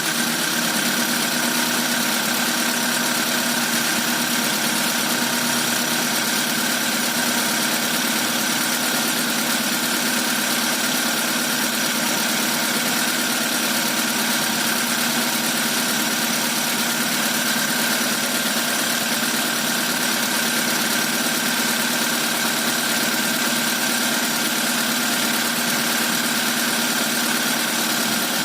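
Rebuilt Proton Iswara 4G13 SOHC engine, bored out with 4G15 pistons and a racing cam, idling steadily with a constant whine over the running noise.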